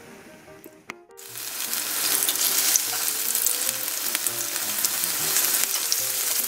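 Batter-coated Chinese toon shoots (gajuk-namul) frying in shallow oil in a frying pan: a dense sizzle of many small crackles and pops that starts suddenly about a second in.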